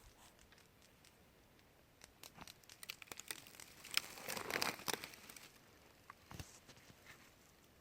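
Quiet rustling and crinkling, a run of crackles that builds to its loudest about four to five seconds in, then a single click shortly after.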